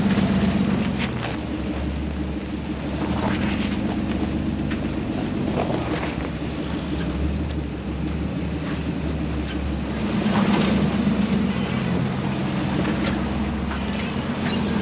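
Off-road recovery rig's engine running at low speed as it crawls over a rough trail, heard from inside the cab, with a few knocks and rattles from the bumps.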